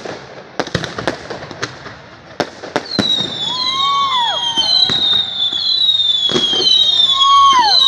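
Fireworks salute: sharp bangs of bursting shells at first, then from about three seconds in a louder stretch of many overlapping falling whistles from whistling fireworks.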